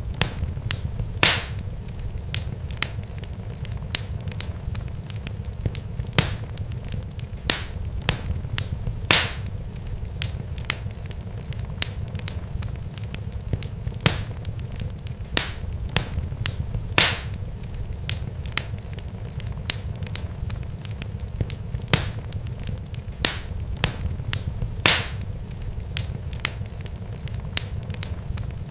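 Irregular sharp crackles and pops, many small ones with a louder pop every few seconds, over a steady low rumble.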